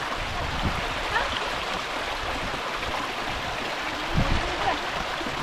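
Rushing water of a mountain stream, a steady hiss, with a few short low thumps near the start and about four seconds in.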